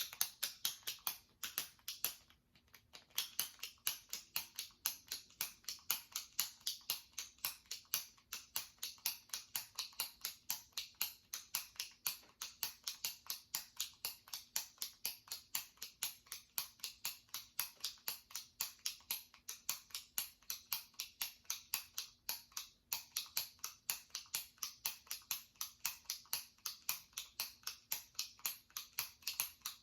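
Jumbo retractable pen clicking as its top button is pressed over and over, about three clicks a second in an even rhythm, with a short pause about two seconds in.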